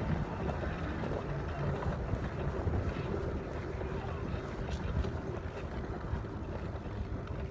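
Dirt bike engine running while riding, with wind buffeting the camera microphone.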